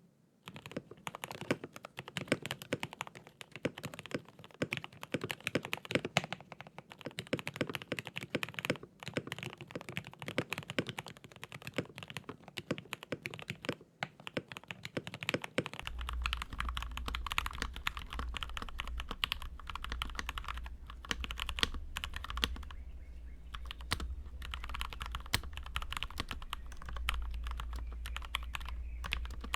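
Fast, continuous typing on a Keychron K8 mechanical keyboard fitted with lubed Gateron Yellow linear switches, tuned Durock plate-mount stabilizers, and tape and foam mods: a dense run of keystroke clacks. A low steady hum comes in about halfway through.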